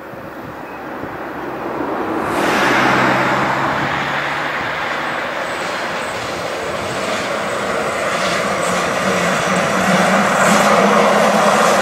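Zentralbahn HGe 4/4 electric locomotive and its passenger train running past, getting louder about two seconds in as it draws near. Wheels rumble on the rails under a steady hum from the locomotive.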